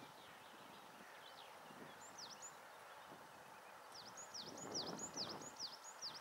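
A small songbird singing high, quick whistles that slur downward, a couple about two seconds in, then a run of about three a second from about four seconds in, over a faint low rumble.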